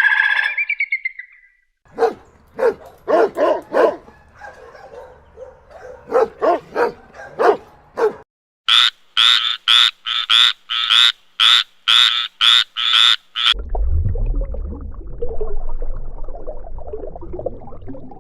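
Animal calls in several runs: short repeated calls, then a fast even series of sharp, higher calls at about three a second, giving way to a low rumbling noise for the last few seconds.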